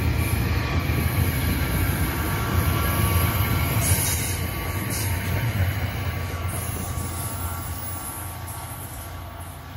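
NJ Transit commuter train rumbling past close by, then fading steadily as it pulls away over the last few seconds.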